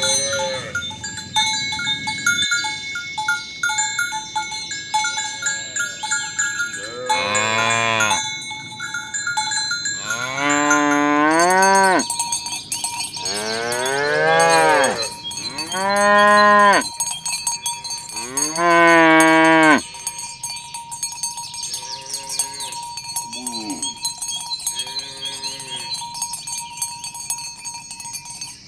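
Cows mooing: about five long, loud moos that rise and fall in pitch, one after another, then a few fainter moos further off. A bell rings in short, repeated strokes during the first few seconds, before the mooing starts.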